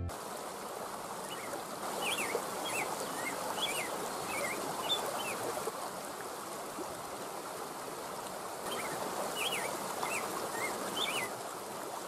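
A bird sings two bouts of short, quick chirping notes, one in the first half and one in the second, over a steady rush of running water.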